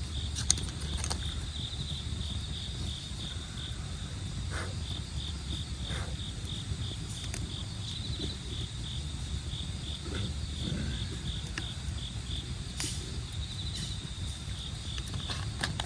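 Crickets chirping in a steady pulsing rhythm over a burning campfire, whose wood gives off scattered sharp crackles and pops now and then. A low steady rush sits underneath.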